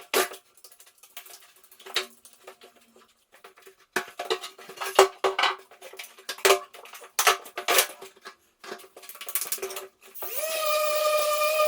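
Hard objects clattering and knocking in quick irregular strikes, with a faint ringing. About ten seconds in, an electric power tool starts up, its whine rising quickly and then holding steady.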